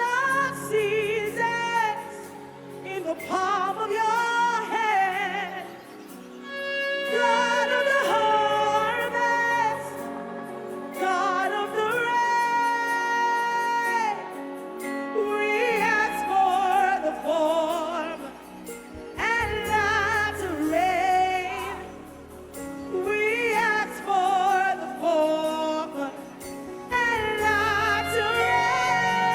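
Slow gospel worship music: a woman's voice sings long phrases with vibrato and held notes over sustained keyboard chords and bass.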